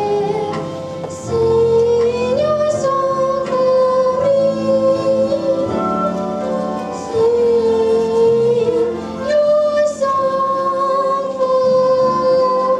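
Solo singing in a child's high voice, a slow song of long held, slightly wavering notes that slide from one pitch to the next, over instrumental accompaniment.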